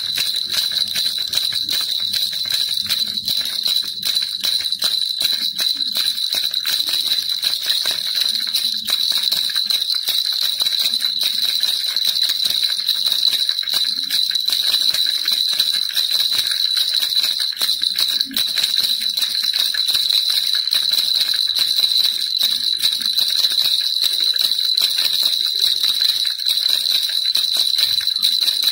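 Baby rattle shaken without a break, a dense, even jingling of small beads or bells.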